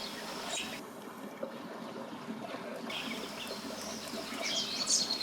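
Outdoor river ambience: steady water noise, with birds chirping a few times, most clearly near the end.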